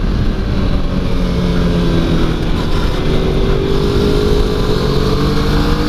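Motorcycle engine heard from onboard with heavy wind rumble on the microphone. For the first couple of seconds the engine note holds low as the bike slows on the brakes, then it rises steadily as the rider accelerates out of the corner.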